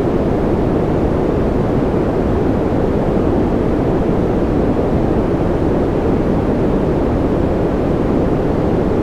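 Continuous synthetic white noise for sleep: a steady, unchanging rush, weighted toward the low range rather than a bright hiss.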